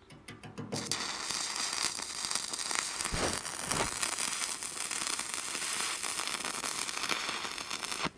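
Stick (MMA) welding arc crackling steadily as a bead is run on steel, starting about a second in and cutting off abruptly just before the end.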